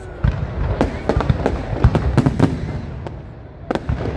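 Aerial fireworks bursting in quick, irregular succession: many sharp bangs and crackles over a low rumble, easing off briefly a little after halfway before picking up again near the end.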